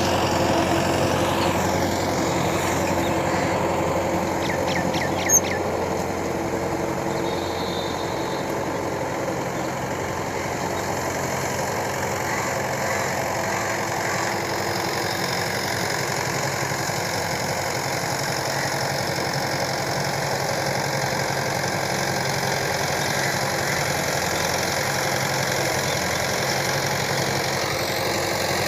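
Tractor engine running steadily, with one short sharp click about five seconds in.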